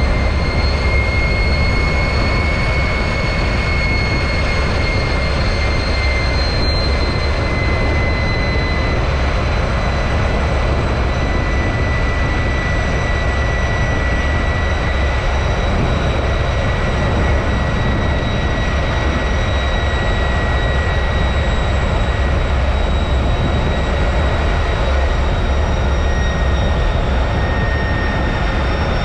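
T-33 jet trainer's Allison J33 turbojet running steadily: a constant roar with a high whine that rises slightly early on, then slowly sags in pitch.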